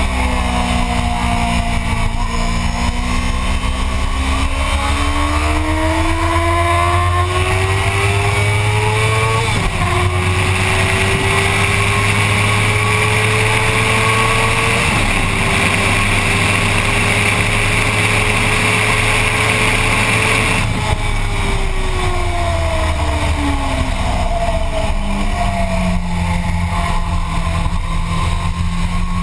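Motorcycle engine accelerating hard with its pitch climbing, shifting up twice, then slowing with a falling pitch and settling at lower revs near the end. A rushing hiss rides over the engine at the highest speed.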